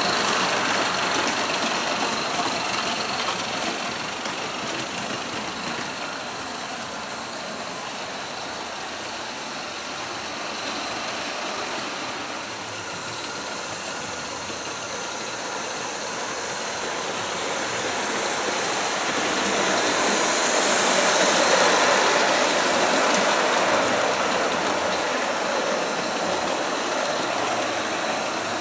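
16 mm scale live-steam garden-railway locomotives running, with a steady hiss of exhaust steam that grows louder about two-thirds of the way through as one passes close, then eases off.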